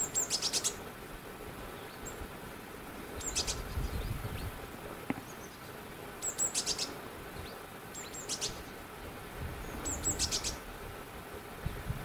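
A small bird calling repeatedly. Each call is a high note followed by a quick rattle of four or five clicks, and it comes five times, every two to three seconds. A low rumble runs underneath and swells now and then.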